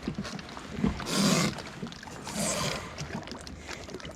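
Water swishing and splashing at the side of a fishing kayak, in two brief swells about a second apart, with small knocks and clicks from handling in between.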